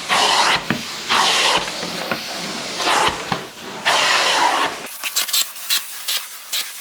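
Truck-mounted carpet-cleaning wand drawn across wet carpet in four strokes, each a loud hissing rush of suction, with the machine running at full speed rather than idle. About five seconds in this gives way to quieter, short scratchy rubbing strokes.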